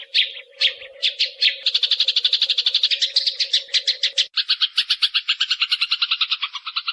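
Eurasian tree sparrow (burung gereja) song: a few separate chirps, then from about a second and a half in a fast, tight trill of repeated chirps, roughly a dozen a second. A low steady hum sits under it until about four seconds in.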